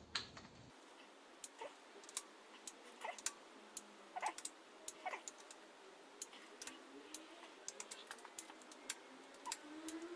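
Faint, irregular light metallic clicks and taps of a socket and torque wrench being fitted to and turned on engine bolts.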